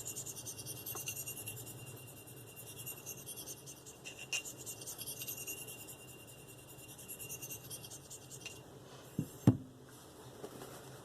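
Steel knife blade drawn in light, rhythmic strokes across a fine Spyderco ceramic sharpening stone, a thin high scraping that stops about eight and a half seconds in. Then come two sharp knocks, the second the loudest sound.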